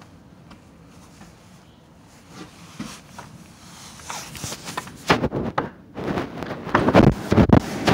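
Storm-force wind gusting against the microphone: a low rush at first, then about four seconds in the gusts start hitting in loud, irregular blasts of deep rumbling buffeting.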